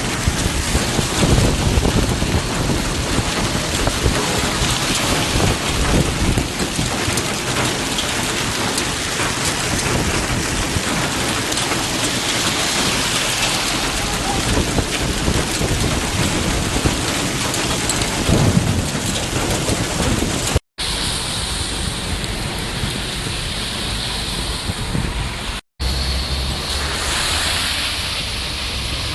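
Heavy rain pouring down in a thunderstorm, with thunder rumbling. The sound cuts out for an instant twice in the second half, and the rain sounds different after each cut.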